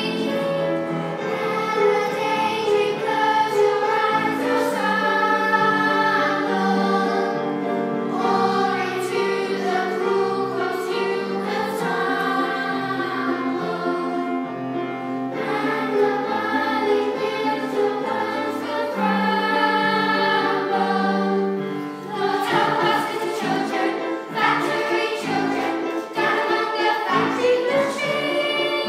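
Children's choir singing a song in unison with musical accompaniment, the notes held and moving in steps. In the last several seconds sharp percussive beats join in.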